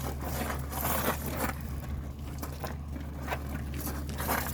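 Feet shuffling and scuffing on gravel during a boxing sparring bout, in irregular bursts, over a steady low hum.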